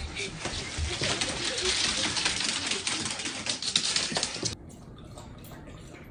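A dense, hissing clatter with many small clicks cuts off sharply, then a German shepherd laps water from a bowl in quick, regular laps, about four a second.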